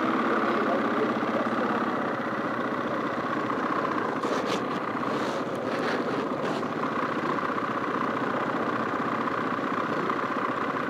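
Enduro motorcycle engines idling steadily, with a few brief clicks around the middle.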